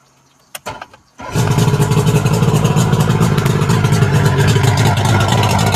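2001 Mariner 50 hp outboard motor cold-starting: a few short clicks, then it fires a little over a second in and runs loud and steady at a fast idle, which the owner thinks may be running a little rich.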